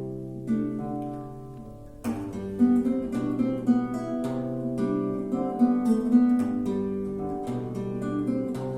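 A solo plucked string instrument playing a melody over held bass notes. It softens over the first two seconds, then picks up again with a strong plucked chord about two seconds in.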